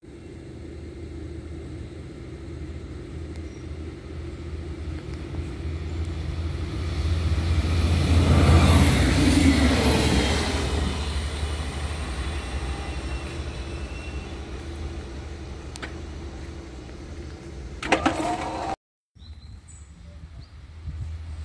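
A 'start' regional train passing close by: its noise swells to a peak about nine seconds in and then fades, over a steady low hum. Near the end there is a brief loud crackle and a short break.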